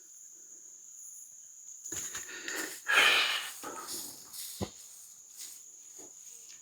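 Footsteps and rustling of a hiker walking on a stony trail through grass and brush, starting about two seconds in as irregular scrapes and crunches, loudest near three seconds, with one sharp click later. A steady high insect trill runs underneath.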